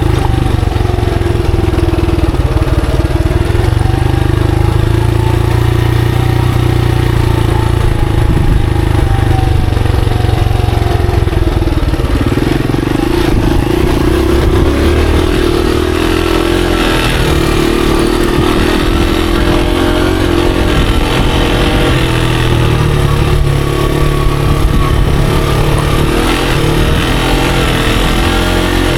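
Monarch Axis 125 trail motorcycle's 125 cc engine running continuously under way, its pitch rising and falling as the throttle is opened and closed.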